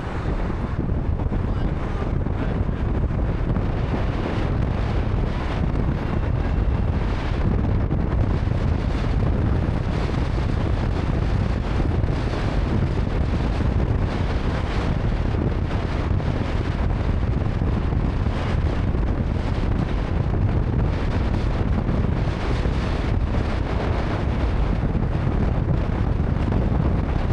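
A car riding along: steady road and wind noise, with wind buffeting the microphone.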